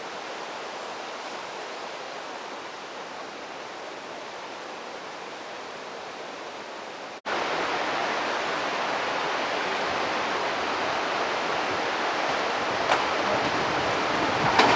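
Steady outdoor rushing noise with no distinct source. After a cut about seven seconds in it is louder and slowly builds, with a faint click near the end, as a train approaches.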